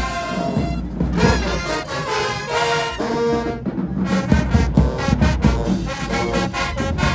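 High school marching band playing, the brass section carrying held notes over the drums, with a run of sharp drum strokes in the second half.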